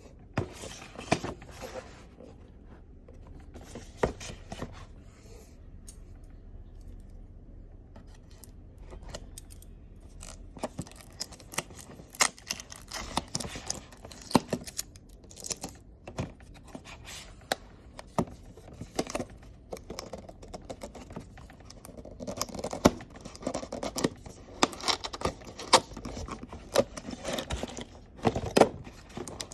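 Hands handling and opening product packaging: irregular clicks, scrapes and rustles of box and wrapping, sparse at first and busier from about ten seconds in.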